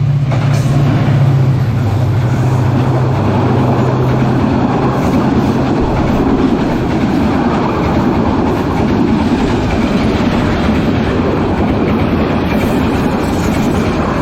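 Passenger train passing close by at a level crossing, its wheels clattering steadily on the rails. A low steady drone in the first few seconds fades away as the train goes by.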